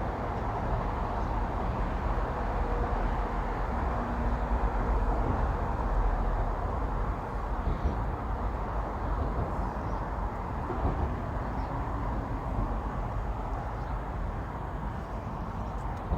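Steady rumble of road traffic on the bridge overhead, swelling for a few seconds around the middle as vehicles pass.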